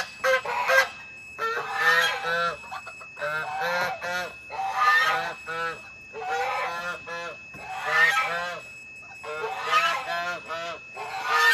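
Farm birds calling in repeated bursts of short, harsh pitched notes, a burst about every second and a half.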